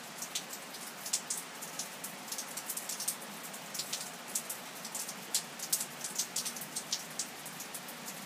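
Steady rain falling, with frequent sharp taps of nearby drops and drips scattered irregularly through it.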